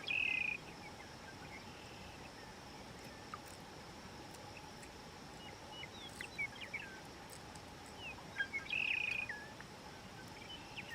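Birds calling: a short trill of about half a second at the start and again about nine seconds in, with scattered short chirps between, over a quiet, steady background.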